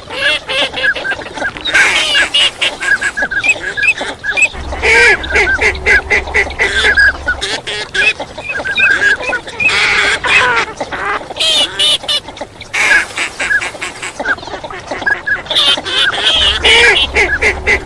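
A flock of wild ducks, teal among them, calling together: a dense chorus of many short, overlapping quacks and calls that keeps on without a break.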